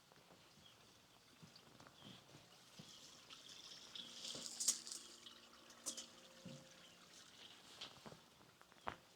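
Faint footsteps of someone walking, with water trickling that swells briefly about four seconds in.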